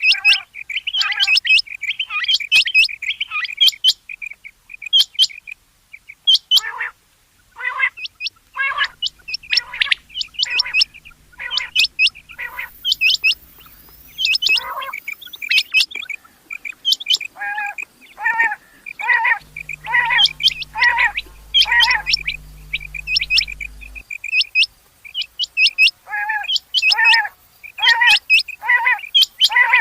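Rain quail calling: short, sharp notes repeated over and over in quick series, some high and thin, others lower and fuller, overlapping as if from more than one bird.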